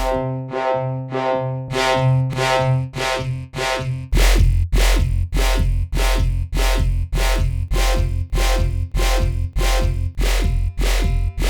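A looped percussive sound run through a resonator effect, so that each hit, about two to three a second, rings at a fixed note with evenly spaced overtones. About four seconds in, the low end becomes much louder.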